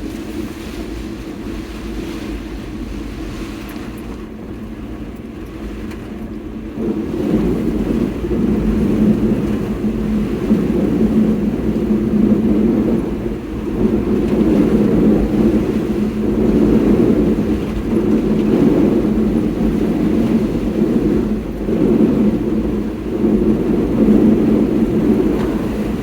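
Car driving, heard from inside: steady road and engine noise that grows louder about seven seconds in and then rises and falls.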